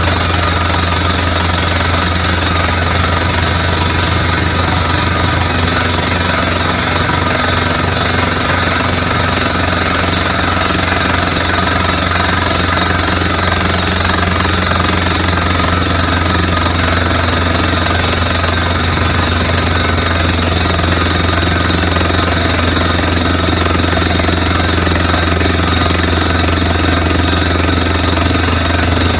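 Borewell drilling rig drilling: a rapid, steady pneumatic hammering over a low, constant engine and compressor drone.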